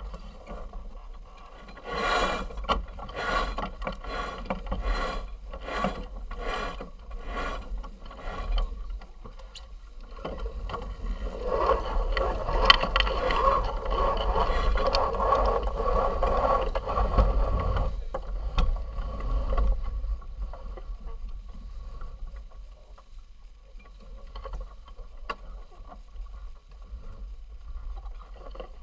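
A sailing yacht's deck winch being wound, ratcheting in regular strokes about two a second, then a louder, longer run of grinding in the middle. Low wind rumble on the microphone throughout.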